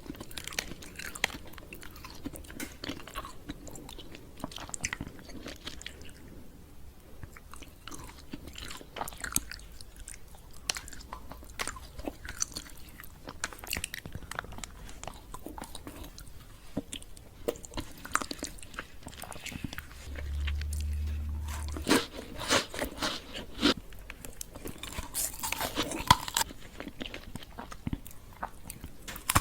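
Chocolate candy being bitten and chewed, with irregular crunching and crackling throughout and sharper, louder crunches in the last third. A low rumble lasts about two seconds a little past the middle.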